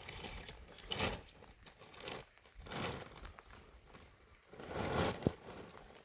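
A few short bouts of rustling or crinkling, like something being handled, with a sharp click about five seconds in.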